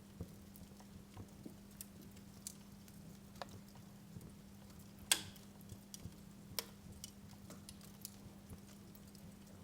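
Wood fire crackling in a fireplace: faint, irregular small pops and snaps, with one sharper, louder pop about five seconds in and another a second and a half later, over a low steady hum.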